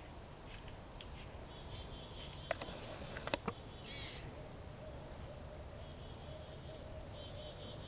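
Birds singing in short repeated trills over quiet outdoor background, with two sharp clicks or snaps about two and a half and three and a half seconds in.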